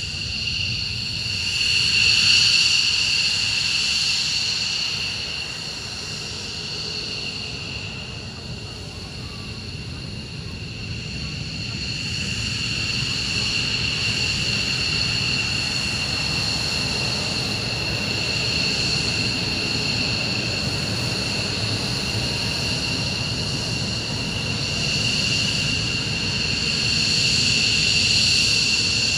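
F-15J fighter's twin turbofan engines running on the ground: a steady high-pitched whine over a low rumble, swelling about two seconds in and again near the end.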